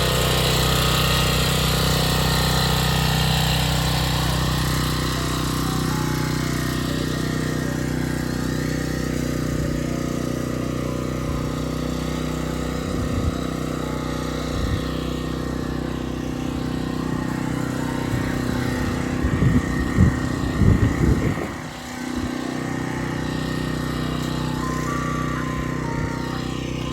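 Ice cream truck engine running steadily, with its jingle fading out in the first seconds. A cluster of loud low knocks comes about three-quarters of the way through.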